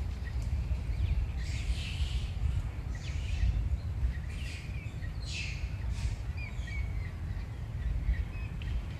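Birds chirping and calling in short, scattered bursts over a steady low rumble.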